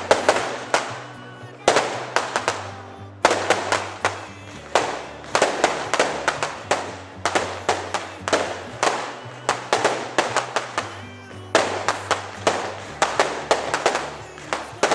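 Fireworks display: volleys of sharp bangs and crackling, a fresh cluster of several reports about every second and a half, over music with a steady bass line.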